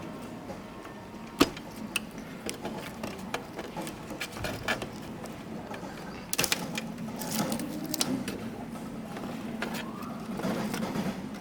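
Irregular light clicks and taps of small objects being handled, the sharpest about a second and a half in and a quick cluster about two-thirds of the way through.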